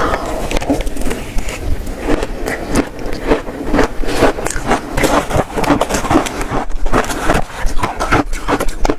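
Close-miked biting and crunching of shaved ice, a dense run of irregular crisp crunches.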